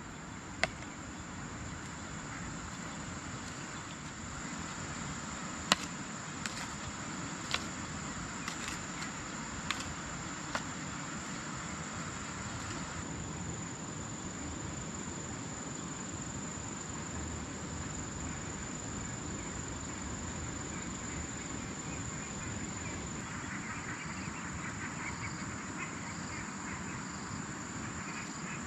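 Insects trilling steadily on one high, continuous note. A few sharp knocks come in the first half, and a second insect's pulsing call joins near the end.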